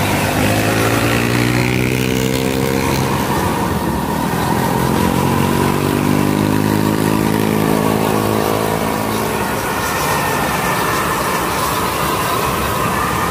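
A vehicle speeding up, its drive tone rising in pitch twice, over a steady running noise.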